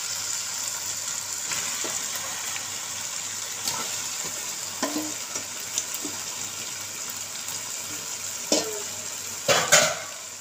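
Raw chicken pieces sizzling in hot oil with the onion-tomato masala in the pan, a steady hiss, while they are stirred in; the metal ladle knocks and scrapes against the pan now and then, loudest a little before the end.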